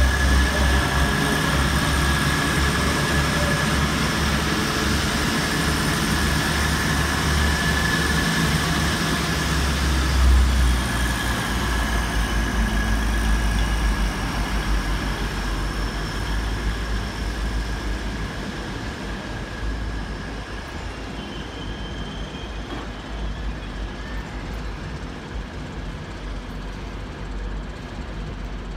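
Grand Central diesel passenger train running past and drawing away: a deep rumble of engine and wheels with a steady high whine, slowly fading over the second half.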